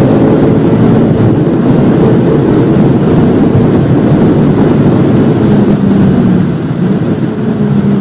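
Volvo V50 T5's turbocharged five-cylinder engine pulling hard under full throttle, loud and steady. About six and a half seconds in the engine note drops away as the car lifts off and slows for a corner.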